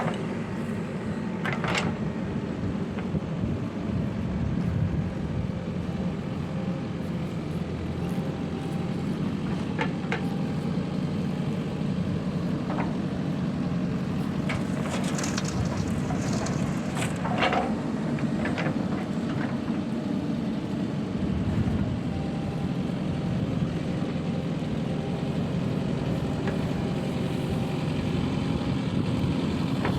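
Heavy diesel machinery running steadily, with scattered clanks and knocks, several of them close together around the middle.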